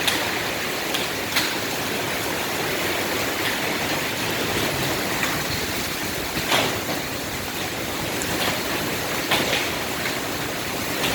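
Heavy rain with hail: a steady, loud downpour with a few sharp knocks of hailstones striking scattered through it.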